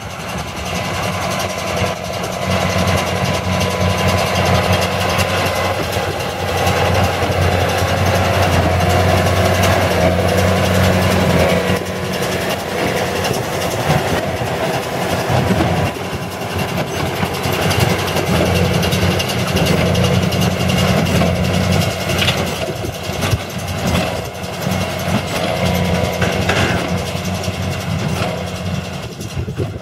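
Engine of heavy farm machinery running steadily, its low note swelling and easing several times as it works.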